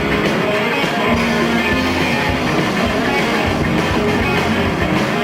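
Live rock band playing an instrumental passage: distorted electric guitars over bass and drums, with no singing.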